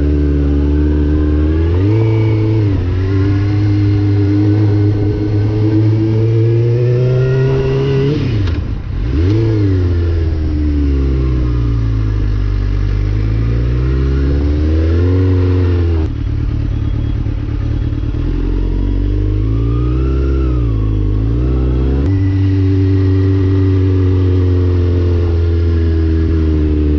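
Suzuki GSX-R sport bike engine running hard under way. Its pitch climbs, drops sharply, then rises and falls repeatedly before holding steady.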